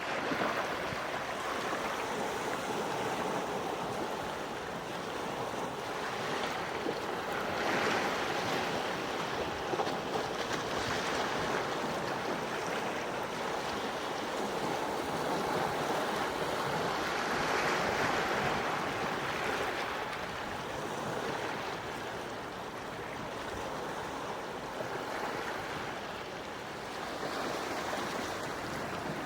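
Gentle sea waves washing onto the shore, a steady hiss that swells and recedes slowly, with fuller surges about eight and eighteen seconds in.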